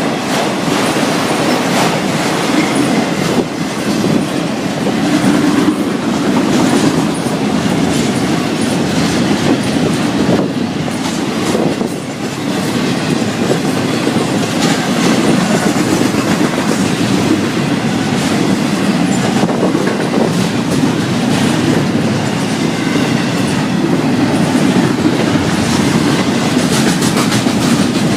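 Florida East Coast Railway freight train's cars rolling past, a steady loud rumble with the wheels clicking over the rail joints.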